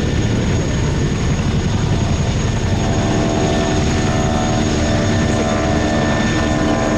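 Modified Boeing Stearman biplanes' 450 hp radial engines and propellers droning through a display pass. A steady propeller tone comes in about halfway through.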